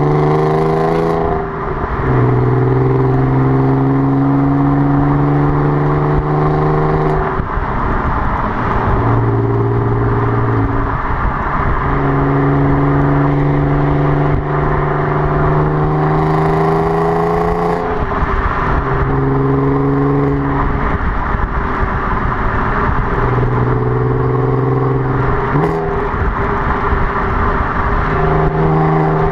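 Audi TT 3.2's VR6 engine running through a non-resonated Milltek exhaust. It holds a steady drone for several seconds at a time, and every few seconds the drone breaks off briefly and the pitch shifts.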